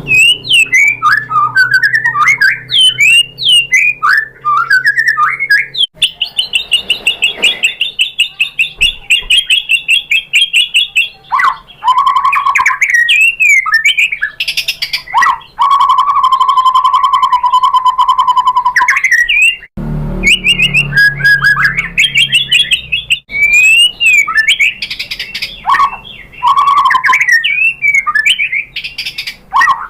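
White-rumped shama (murai batu) singing a varied song of quick rising and falling whistled phrases. It includes a long, rapid trill in the first third and a steady low whistle held for a few seconds in the middle, then more phrases after a brief break.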